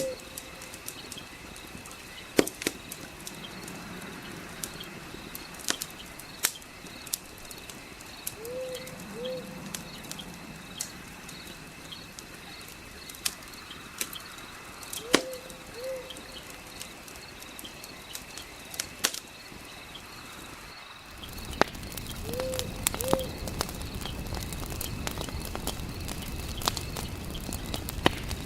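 Fireplace ambience: wood fire crackling with sharp scattered pops, over a steady insect trill and a bird's short two-note call that repeats four times. About three-quarters of the way through, a deeper rushing fire noise comes in underneath.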